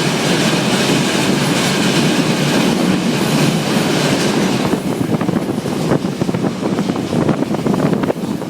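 Flåm Railway train running up the mountain line, heard from aboard: steady rumble of wheels on rail, with a high hiss in the first half, then rapid clicks of the wheels over the track from about halfway. The sound drops off just before the end.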